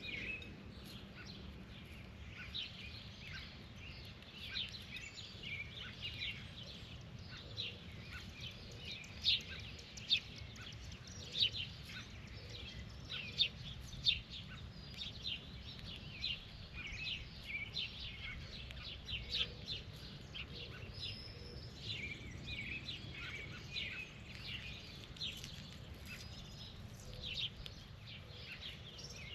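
Birds chirping: many short, rapid calls overlapping, loudest around the middle, over a steady low background rumble.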